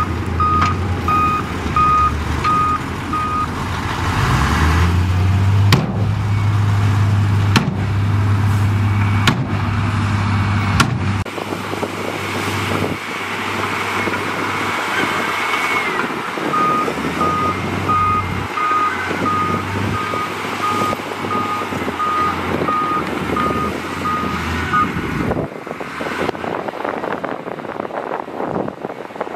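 Diesel engine of heavy earthmoving equipment running, revving up about four seconds in, while a reversing alarm beeps about twice a second near the start and again later on. A few sharp knocks sound in the middle, and wind noise takes over near the end.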